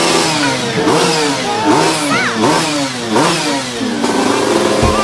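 Two-stroke Vespa small-frame engine with a Quattrini 144 cc cylinder kit, revved in repeated throttle blips. The pitch rises and falls about four times.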